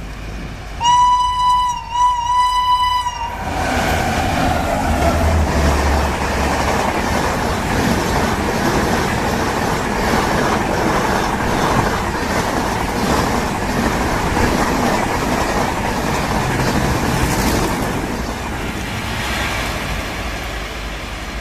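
WAP-7 electric locomotive's 'meow meow' horn sounding three short blasts, then the Rajdhani Express rushing past at its maximum permitted speed, a steady loud rush of coaches with wheels clattering over the rail joints.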